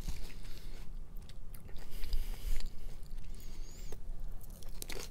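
Chewing and mouth sounds of a person eating a salad of greens, apple, cucumber and noodles, with light irregular clicks of wooden chopsticks picking at the plate.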